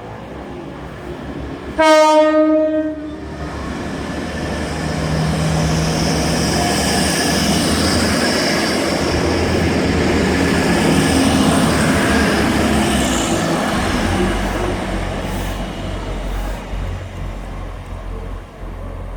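Class 180 diesel multiple unit sounding one short horn blast about two seconds in, then passing through the station, its engine and wheel noise swelling to a peak midway and fading away.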